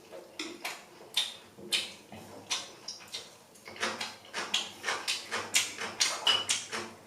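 A person slurping instant ramen noodles in a series of short, noisy pulls. The pulls come a few at a time at first and then more quickly from about halfway through.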